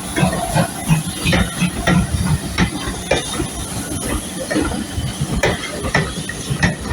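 Steam locomotive hissing steam, with a steady hiss and irregular knocks and clanks.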